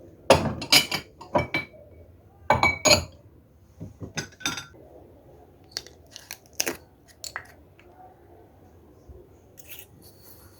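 Hard items clinking and knocking together: several quick clusters of sharp clinks with a short ring in the first half, then scattered lighter clinks.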